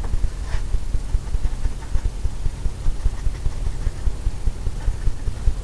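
Paintbrush dabbing and tapping paint onto a canvas: a rapid, irregular run of low thumps over a steady low rumble.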